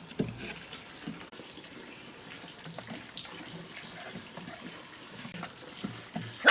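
Running water with a few light knocks.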